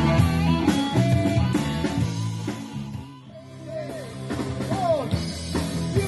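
Rock band playing, with guitar and drum kit. The music thins out about halfway through, then a guitar with bending, sliding notes leads the full band back in.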